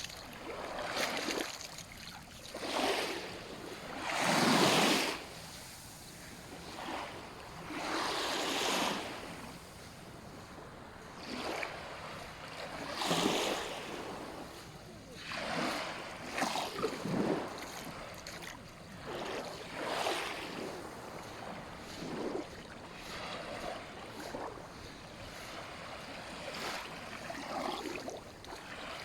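Small sea waves washing onto a sandy beach, breaking in soft rushes one after another every second or two, a few of them louder than the rest.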